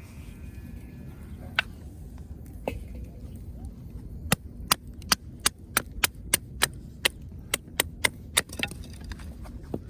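Sharp wooden knocks and cracks: a couple of single ones early, then a quick run of about a dozen, roughly three a second, over a low steady background rumble.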